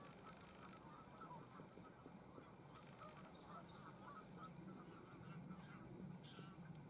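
Faint chorus of distant birds calling, many short calls overlapping, with a run of about six short, high, falling chirps from a smaller bird in the middle.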